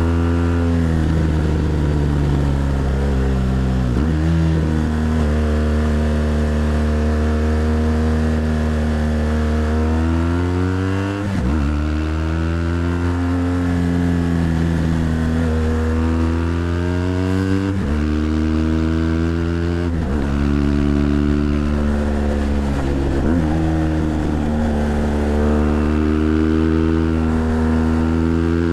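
BMW GS Adventure LC's boxer twin engine pulling under the rider, its pitch climbing and falling several times with short breaks as the throttle is shut or a gear is changed.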